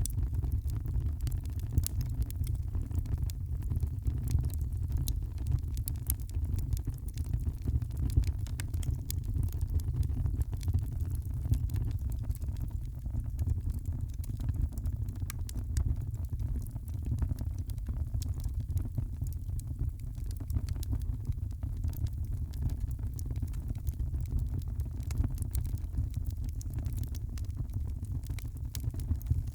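Wood fire crackling in a fireplace: frequent small pops and snaps scattered over a steady low rumble.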